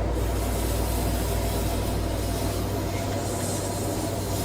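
A lit firework hissing steadily as it burns, with no bang, over a low steady hum.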